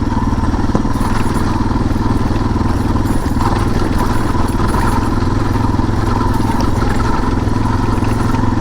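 Suzuki DR650 dual-sport motorcycle's single-cylinder four-stroke engine running at a steady speed while being ridden.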